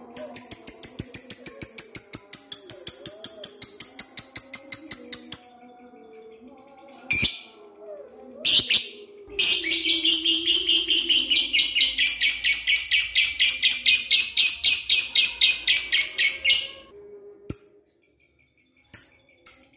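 Lovebird chattering in its long 'ngekek' song: a fast run of high repeated chirps for about five seconds, a few short calls, then a longer unbroken trill of about seven seconds, followed by short calls near the end.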